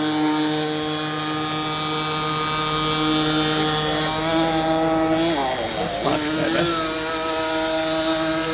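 Small nitro (glow-fuel) RC boat engine, just started, running at a steady high-pitched idle. About two thirds of the way through, its pitch sags and wobbles briefly before settling back to the same steady note.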